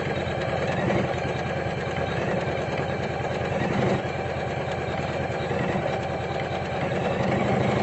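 Usha Janome Memory Craft 550-E computerized embroidery machine stitching out a design: a steady, rapid run of needle strokes over the motor's hum.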